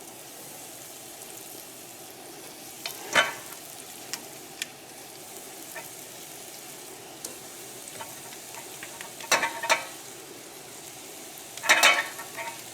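Flour-coated chicken pieces frying in hot olive oil in a pan, with a steady sizzle. Sharp clatters come about three seconds in, twice around nine and a half seconds, and again near the end, as pieces are dropped in and moved in the pan.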